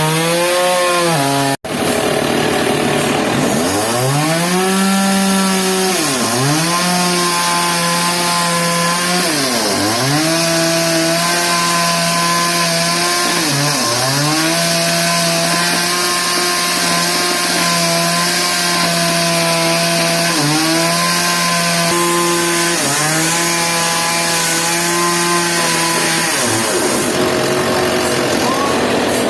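Engine-driven saw cutting wood. The engine's pitch drops sharply and recovers about six times as the blade bites and the engine slows under load, then the tone falls away near the end.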